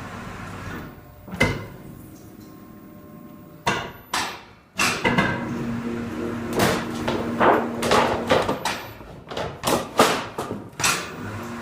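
Sheet-metal flashing being worked: a series of sharp metal clanks and knocks, sparse at first and then coming quickly in the second half, with a steady machine hum for a few seconds in the middle.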